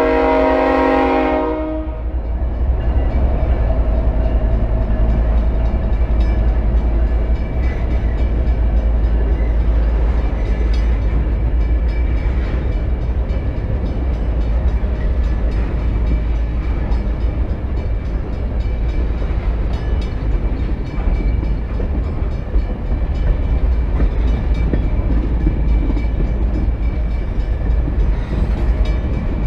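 Canadian National freight train passing close by. The locomotive horn sounds until it cuts off a couple of seconds in, then a steady rumble and clatter of tank cars rolling past on the rails.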